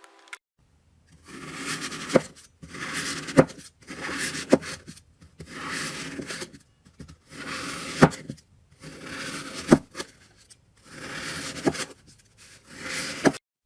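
Slime being worked by hand in a steady rhythm: about eight squelching, rubbing strokes, one every second and a half or so, most ending in a sharp pop.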